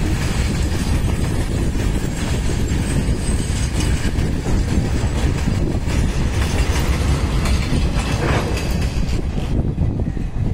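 Loaded BTPN crude-oil tank wagons of a freight train rolling past, steel wheels clattering on the rails in a dense, steady rumble; the upper hiss thins out near the end as the last wagon goes by.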